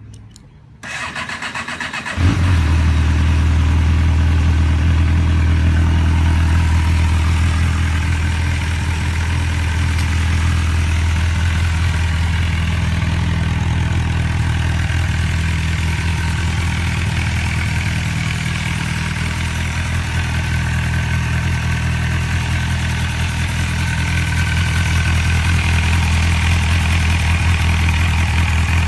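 2004 MV Agusta Brutale 750S inline-four motorcycle engine on a cold start: the starter cranks for about a second, the engine catches a little over two seconds in, then idles steadily, its note easing slightly midway and rising a little near the end.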